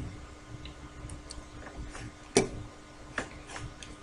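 A few light, sharp clicks at uneven intervals, about seven in four seconds, the loudest about two and a half seconds in, over a faint steady hum.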